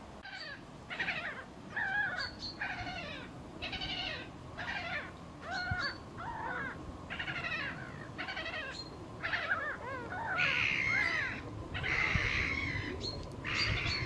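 Birds calling repeatedly: a string of harsh, downward-bending calls, roughly one a second and loudest toward the end, with a few short high chirps in between.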